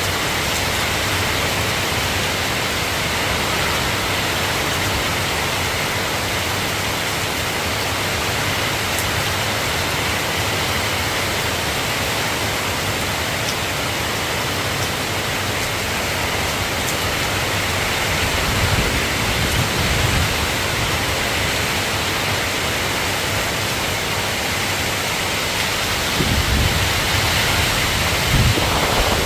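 Steady rain falling, an even hiss, with low rumbles of thunder about two-thirds of the way in and again near the end.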